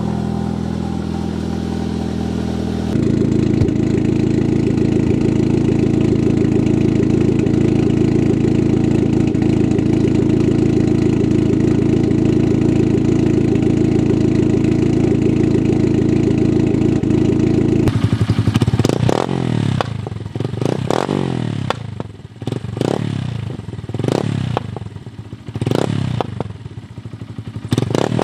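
Catless Dodge Caliber's four-cylinder engine idling steadily as it warms up after a cold start, its exhaust running without a catalytic converter. From about two-thirds in, an engine is revved repeatedly, roughly one blip every two seconds, each rise in pitch falling back to idle.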